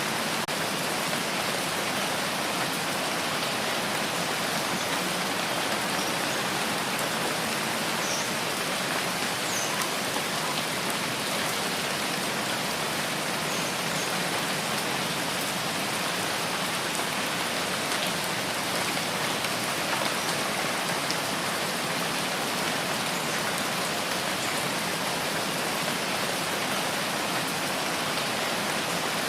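Steady rain falling with an even hiss, a few individual drops ticking faintly now and then.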